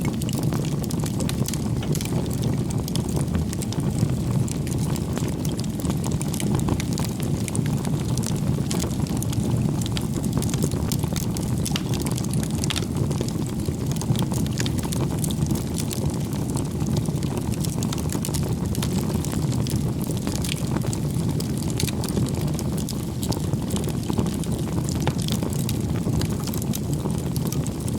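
Wood campfire burning: a steady low rush with frequent small, irregular crackles and pops.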